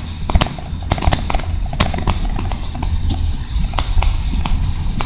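Subaru Forester driving through deep snow: a steady low rumble with irregular clicks and knocks throughout.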